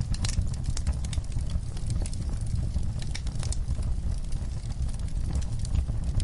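Wood fire in a fireplace crackling, with frequent sharp, irregular pops over a steady low rumble of burning.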